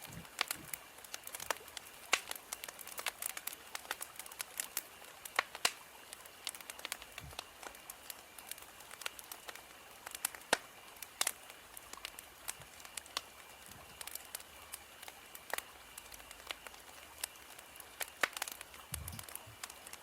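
Wood fire crackling: irregular sharp pops and snaps, several a second, over a soft hiss.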